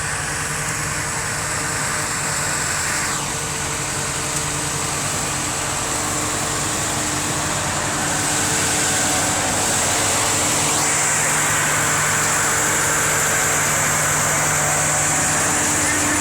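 Tractor engines running steadily as tractors pass, growing a little louder about halfway through.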